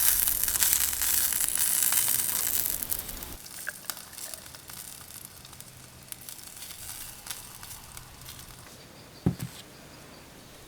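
Chicken skin sizzling and crackling as it grills over charcoal. It is loud for the first three seconds or so, then quieter with scattered pops, and there is a short low thump about nine seconds in.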